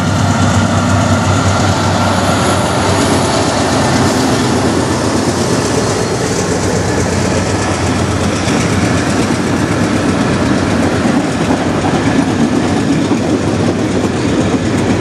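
A CN manifest freight train passing close by. Its lead SD75I diesel locomotive goes by at the start, then empty centerbeam lumber flatcars roll past with steady wheel noise on the rails.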